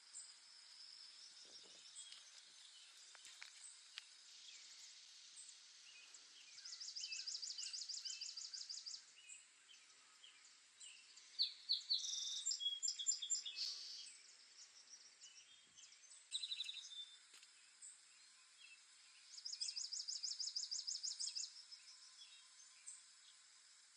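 Birds chirping and singing: scattered high chirps, with a fast trill of rapidly repeated notes about 7 s in and again about 20 s in, over a faint steady background hiss.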